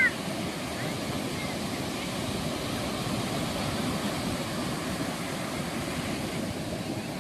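Ocean surf washing steadily onto a sandy beach, a continuous rushing wash without distinct breaks. A brief high-pitched chirp sounds right at the start.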